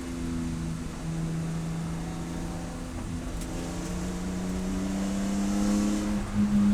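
Race car engine: its pitch drops sharply about a second in as the car slows, holds low briefly, then rises steadily and grows louder as the car accelerates, with a short dip near the end.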